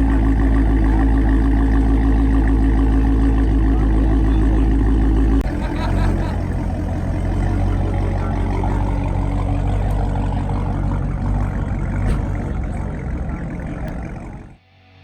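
Supercharged 6.2-litre Hemi V8 of a modified Dodge Charger Hellcat running close by with a loud, steady exhaust rumble. About five seconds in, the note changes abruptly to a rougher, lower drone that slowly weakens as the car leaves, then drops away sharply near the end.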